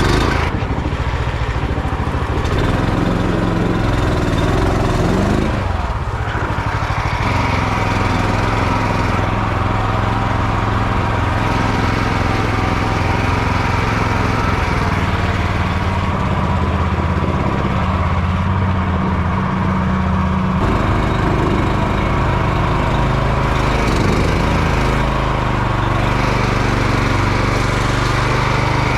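Longtail mud motor on a jon boat running hard at high throttle, the small engine's note shifting a couple of times, near 6 seconds and again near 20 seconds in, as it pushes the boat through the sawgrass.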